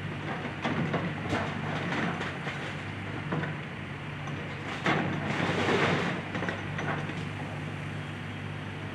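Excavator engine running steadily while the machine breaks up a house, with scattered cracks and crunching of breaking wood and debris, loudest in a burst about five to six seconds in.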